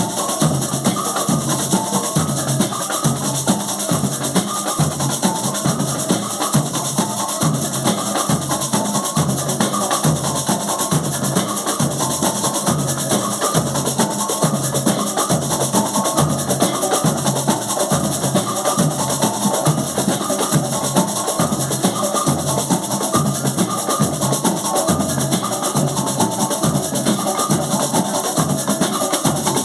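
Live rehearsal music led by drums and other percussion, playing a steady, driving rhythm throughout.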